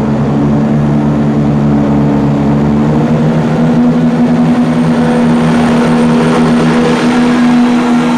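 Diesel multiple-unit train's engines running steadily under power, several steady engine tones over a rumble. One of the tones shifts slightly in pitch about three and a half seconds in.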